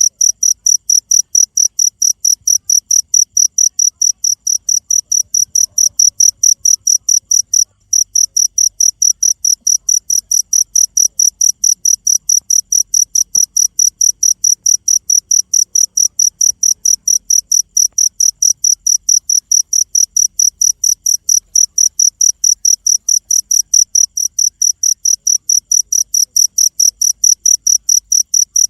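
Cricket chirping: a loud, very regular train of short high-pitched chirps, about three to four a second, with one brief break about eight seconds in.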